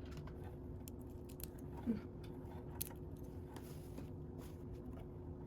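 Lego bricks being handled and pressed into place: scattered small plastic clicks, with a slightly louder one about two seconds in, over a steady low hum.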